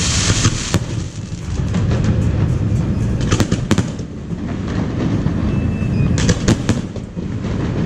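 Aerial fireworks going off: a hiss right at the start, then sharp bangs and crackles in clusters over a steady low rumble.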